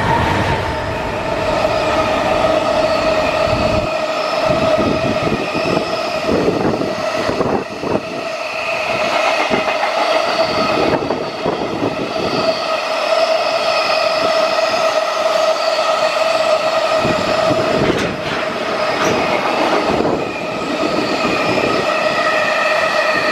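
Freight train hauled by an EF210 electric locomotive passing through a station: its wagons' wheels clatter over the rail joints, under a steady high-pitched whine.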